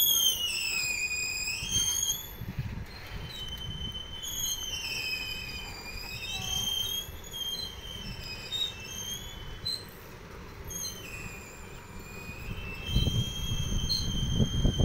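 Long freight train of goods wagons rolling slowly past, with a high squeal from the wagons' wheels that wavers and slides up and down in pitch. Under it a low rumble grows louder near the end.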